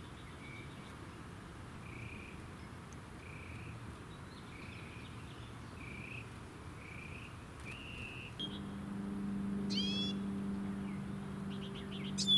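A small bird repeats a short whistled note about one and a half times a second, then gives a louder sweeping, meow-like call twice, the second near the end. A steady low hum comes in about two-thirds through.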